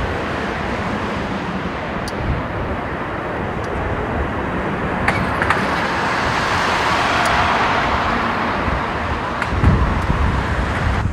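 Steady outdoor vehicle noise, with a passing vehicle swelling and fading through the middle. Gusts of wind buffet the microphone near the end.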